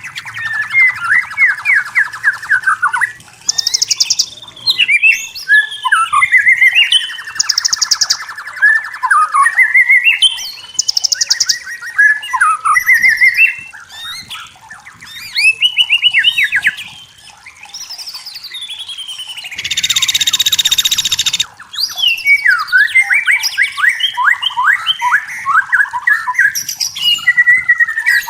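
White-rumped shama singing a long, varied song of rapid whistles, trills and chattering phrases, with short high buzzy notes. A harsh rasping note lasting about two seconds comes near two-thirds of the way through.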